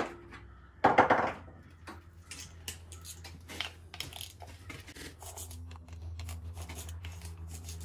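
Hand tools working the small bolts on an LS1 V8 valve cover: scattered metal clicks and clinks of a wrench or ratchet, with a louder clatter about a second in. A steady low hum runs underneath.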